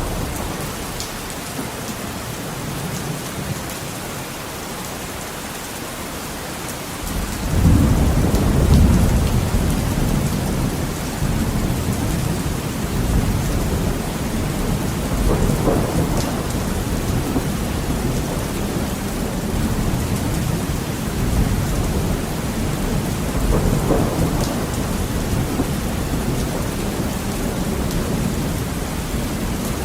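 Heavy rain on a window with rolling thunder. A deep thunder rumble starts suddenly about seven seconds in and keeps rolling, swelling again twice, over a steady hiss of rain.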